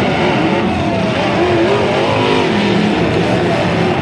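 A truck engine running hard under load, loud and continuous, its pitch wavering up and down.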